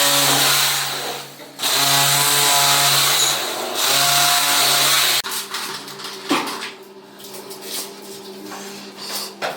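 A handheld power tool runs loudly in three spells, with short breaks between them, then stops abruptly about five seconds in. Scattered light clicks and knocks follow over a faint hum.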